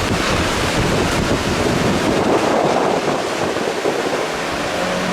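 Strong tornado-driven wind rushing steadily and buffeting the microphone.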